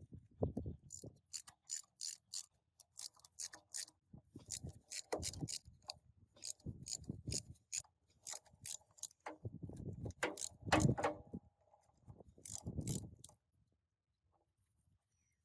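Clicking and knocking of metal parts being worked by hand, in irregular runs of sharp clicks with dull knocks, stopping about 13 seconds in.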